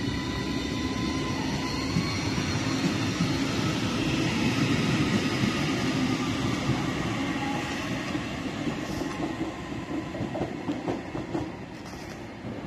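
Northern multiple-unit passenger train passing along the platform: a steady rumble of wheels on rail that builds to its loudest about five seconds in, then fades as the train moves away. A faint whine slides slightly down in pitch over the first two seconds, and a few rail clicks come near the end.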